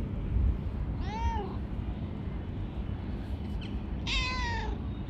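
Calico cat meowing twice: a short meow that rises and falls in pitch about a second in, and a longer meow that slides down in pitch near the end. A steady low rumble runs underneath.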